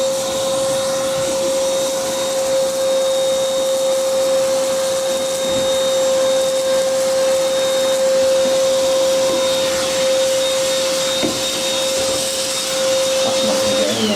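Bush vacuum cleaner running at full speed with a steady whine, used to suck caked fluff and lint out of a tumble dryer's condenser. It is switched off at the very end and winds down.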